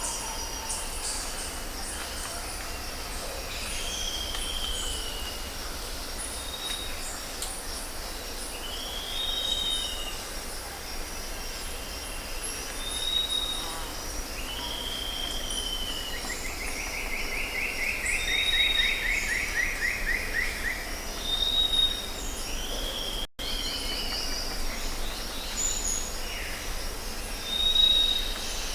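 Several birds calling: repeated short high chirps, downslurred whistled notes, and a fast trill lasting several seconds in the middle, over a steady high-pitched hum.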